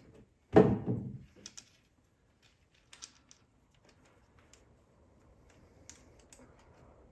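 Workshop handling noises: a loud thunk about half a second in, then a few scattered light clicks and taps, as of hand tools and parts being handled.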